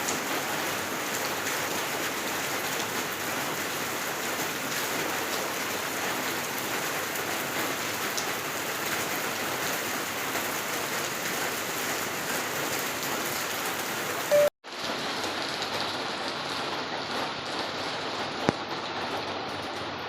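Steady rain falling on a surface, a continuous even hiss. About three-quarters of the way through, a brief loud pop and a split-second gap break it off; the rain then carries on slightly duller, with one sharp click near the end.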